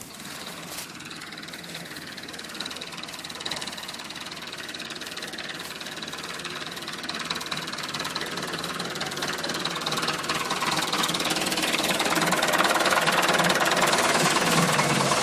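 Tractor engine running under load with a rapid, rattly knock, growing steadily louder as it draws nearer.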